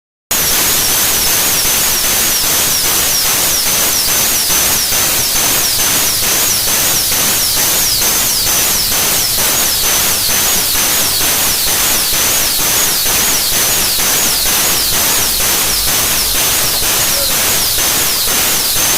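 Loud steady hiss of compressed air, with a regular pulse about three times a second.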